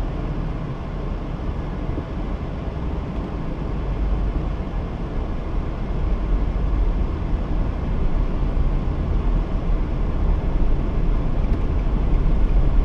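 Steady low rumble of vehicle engine noise, slowly growing louder.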